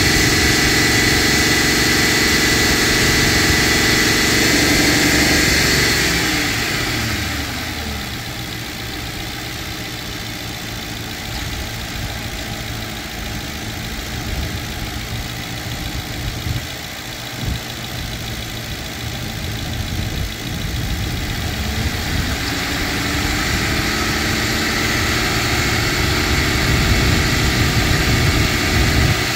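Car engine running with the hood open, held at raised revs with a steady whine riding on top. About six seconds in the revs sink slowly back to idle. From about twenty seconds in they climb slowly again and hold.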